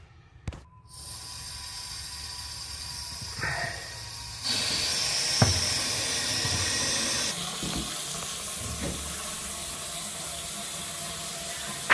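Faucet water running into a bathroom sink to test the freshly snaked drain. The flow starts suddenly about a second in, runs stronger for a few seconds midway, then eases off a little, with a few light knocks.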